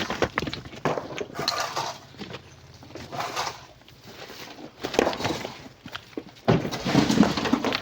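Chunks of coral rock and stones clattering and knocking together as they are loaded into a truck. The knocks come in irregular bursts, with the loudest run near the end.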